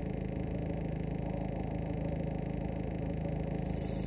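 Car engine and road noise heard from inside the cabin while driving, a steady drone, with a brief hiss near the end.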